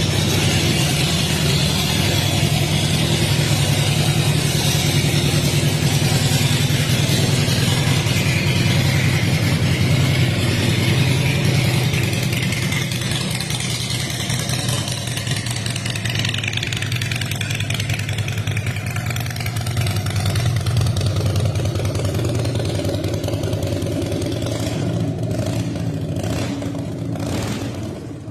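Harley-Davidson Heritage Softail Classic's 1450 cc V-twin engine running steadily. It quietens in the last few seconds, with a few short sharp sounds near the end.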